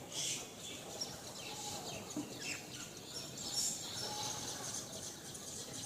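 Birds chirping: a scatter of short, high calls and quick downward-sliding notes.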